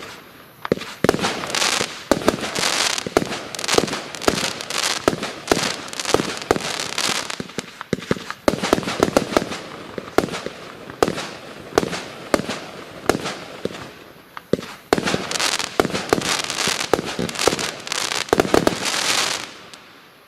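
A 130-shot, 20 mm consumer fireworks cake firing in rapid succession: a dense run of sharp bangs and pops, thinning briefly a few times, then dying away just before the end as the cake runs out.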